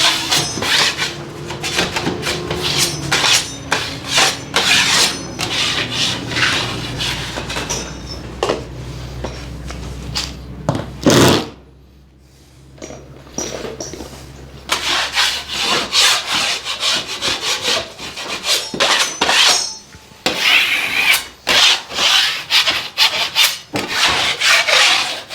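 Repeated rasping, scraping strokes of a hand tool working plasterboard, several a second, with a quieter pause about twelve seconds in.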